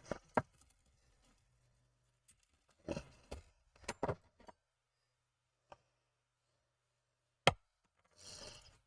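Small model truck parts being handled and set down on a work surface: scattered light clicks and taps, a few short rustles, and one sharp knock about two-thirds of the way through.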